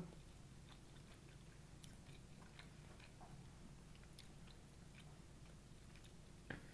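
Faint chewing and small mouth clicks of someone eating, over a low steady hum, with one sharper click near the end.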